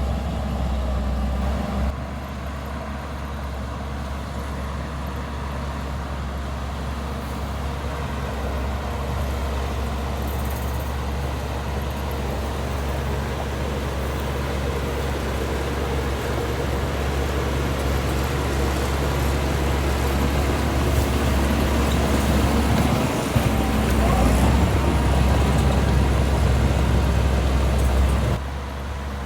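Heavy diesel earthmoving machinery running steadily with a deep drone, slowly growing louder. A gliding pitch change comes about three quarters of the way through, and the sound level jumps abruptly near the start and near the end.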